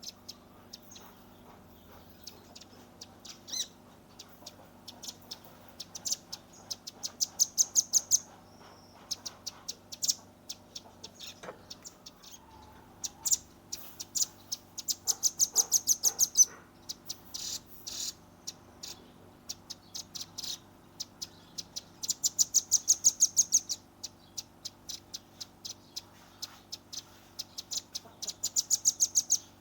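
Velvet-fronted nuthatch (red-billed rambatan) calling: sharp, high chips, some scattered singly and others in fast runs of several a second. The runs last a second or two and come about every seven seconds, the loudest near the end.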